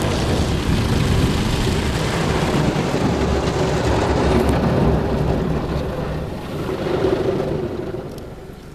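Mark VII automatic car wash working on the car, heard from inside the cabin: a dense rumble of water spray and machinery against the body, with a steady motor hum, dying down near the end. The wash is at its wheel-scrubbing stage.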